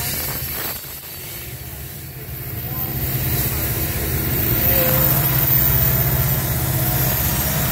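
Loaded coal hopper cars rolling past on the rails, then the diesel engines of a pair of BNSF distributed-power locomotives, an SD70ACe and an SD70MAC, coming by under power. The engine rumble grows louder from about a third of the way in and stays loud to the end.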